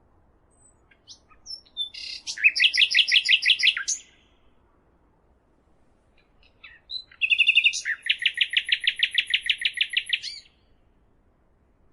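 A songbird singing two trilled phrases of rapidly repeated high notes. The first starts about two seconds in and lasts about two seconds; the second begins about seven seconds in with a few separate opening notes, then runs into a longer, faster trill that stops about three seconds later.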